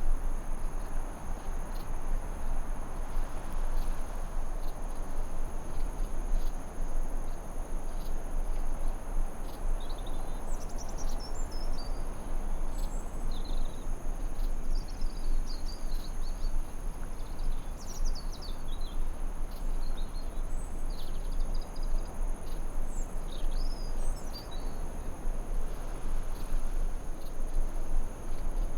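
Forest ambience: a steady rushing hiss under a constant high insect drone, with birds chirping and trilling in short calls through the middle stretch.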